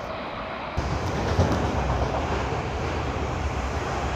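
A train running, a steady rumble with rushing noise.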